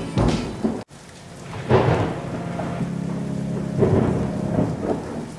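Thunderstorm: steady rain with thunder rumbling, swelling about two seconds in and again near four seconds.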